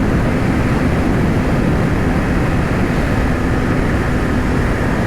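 Yamaha R6 inline-four sport-bike engine running at a steady cruising speed, heard from the rider's helmet mic with heavy wind rush over it.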